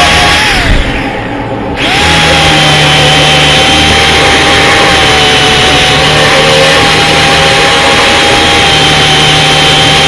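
Electric grinder running loud with a steady whine, spinning down about half a second in and back up to speed about two seconds in, then running steadily while stripping paint and lettering off an old sign.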